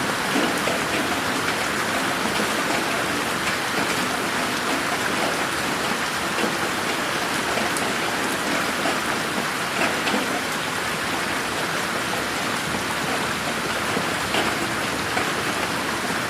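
Steady rain falling in a garden, an even hiss with scattered individual drops pattering.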